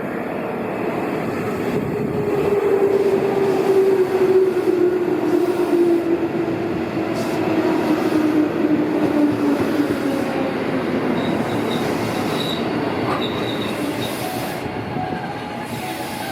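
JR West 221 series electric train running on the rails, with a motor and gear whine that falls slowly in pitch as the train slows. It is loudest about four seconds in.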